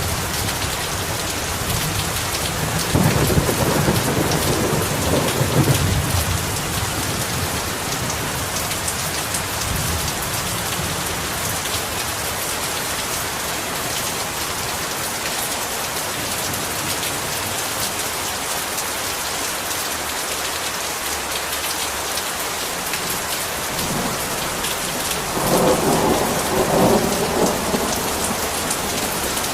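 Heavy rain falling steadily. Thunder rumbles twice: once about three seconds in, lasting a few seconds, and again near the end.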